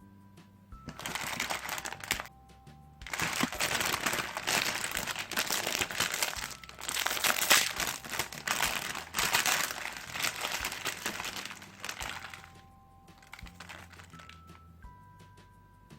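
Plastic packaging crinkling as it is handled, in several stretches over about ten seconds and fading out near the end, over quiet background music.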